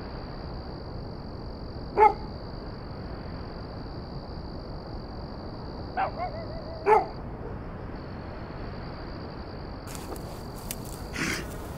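A dog barks three times: once about two seconds in, then twice close together around six and seven seconds. A steady high insect trill runs underneath, with a short burst of clicks near the end.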